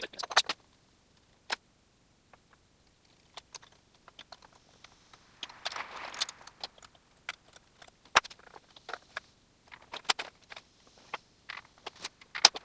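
Scattered sharp clicks and knocks of tools and parts being handled during rear hub and suspension disassembly, with a short scraping stretch about halfway through and a few louder single knocks later on.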